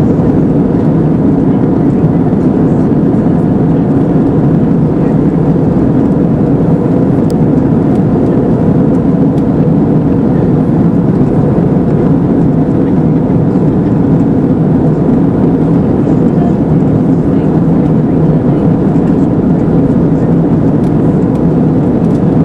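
Steady cabin roar of an Airbus A320 in flight: engine and airflow noise holding even and unbroken, deepest and strongest in the low range.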